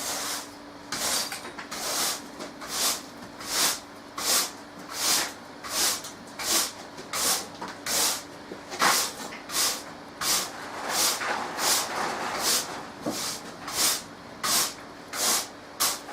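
A brush or broom sweeping a floor in quick, even strokes, about one every 0.7 seconds, each a short scratchy swish.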